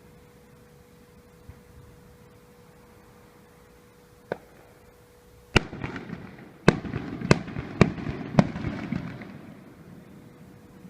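Aerial fireworks shells bursting: a single sharp bang about four seconds in, then a volley of five loud bangs over about three seconds. Crackling and rumble fill the gaps and die away about a second after the last bang.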